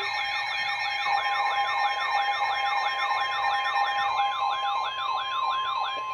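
Electronic siren-style alert tone warbling up and down about three times a second, layered with steady tones, sounding as the attention signal for a weather warning broadcast.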